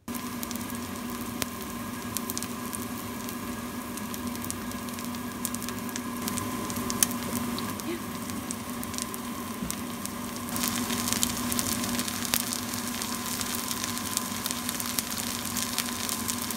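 Squid pancake (ojingeo-jeon) sizzling and crackling in a frying pan with too much oil, a dense patter of fine crackles over a steady hum. The sizzle grows louder about ten seconds in.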